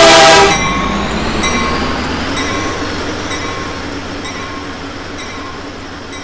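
A CPKC train's horn ending a loud blast in the first half second, then the train rolling past: a steady rumble with brief high wheel squeals, slowly fading.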